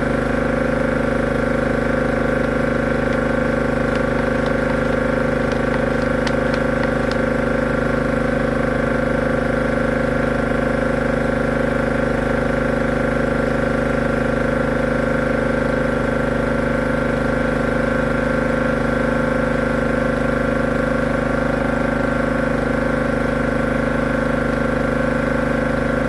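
High-pressure drain jetter running steadily, its pump spraying water down a blocked drain to clear it.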